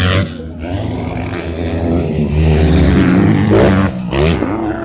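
Motocross bike engine running and revving, its pitch rising and falling, with a sharper rev near the end.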